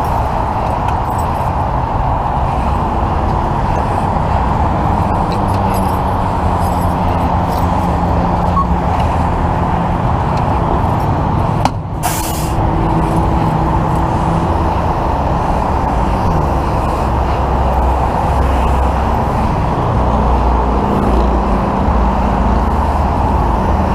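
Steady truck engine and roadway traffic noise, with a brief hiss a little before halfway through.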